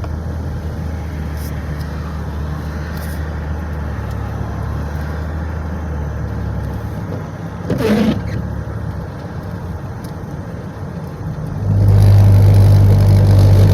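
Steady road and engine noise inside a moving car's cabin, a low hum; near the end it swells into a much louder low drone for a few seconds.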